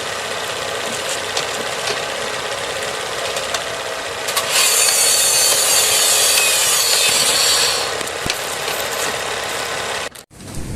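Steady downpour with a motor hum of traffic on the wet street; a much louder hiss swells about halfway through and fades about three seconds later. The sound cuts off suddenly near the end.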